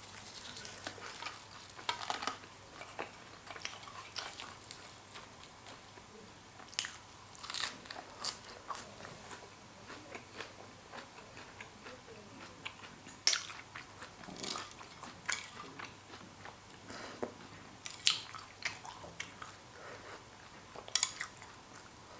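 Close-up mouth sounds of someone chewing a spicy horseshoe crab egg salad with raw vegetables: irregular sharp crunches and wet chewing, with the loudest crunches about 13, 18 and 21 seconds in.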